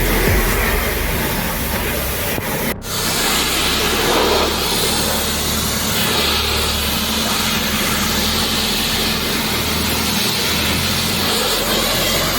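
Pressure washer spraying water onto a car: a steady loud hiss over a low hum. It cuts out for an instant about three seconds in.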